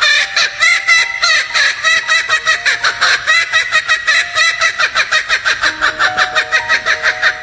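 Laughing kookaburra giving its loud laughing call: a rapid, unbroken run of cackling notes, about five or six a second, that stops near the end.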